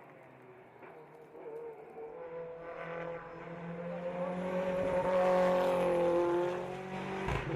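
Race car engine approaching under hard acceleration. It grows louder from about two seconds in and peaks around five to six seconds, its pitch rising and falling as it revs. A short thump comes near the end.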